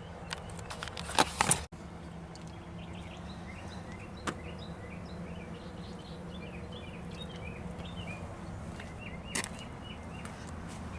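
A quick clatter of knocks and clinks in the first couple of seconds, then birds calling again and again in the background over a steady low hum, with an odd single click.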